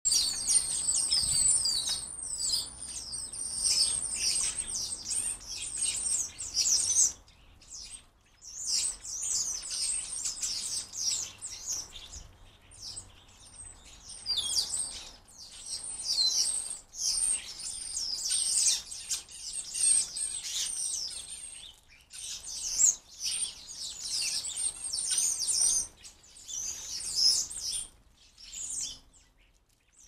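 Small garden birds chirping in quick, overlapping runs of high calls, with a few short lulls.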